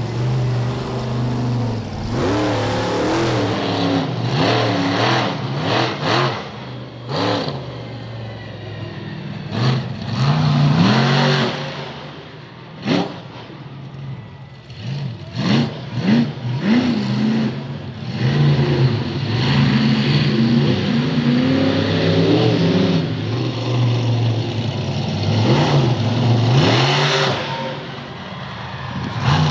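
Monster truck engine revving hard and easing off again and again during a freestyle run, with several sharp knocks or bangs in the middle.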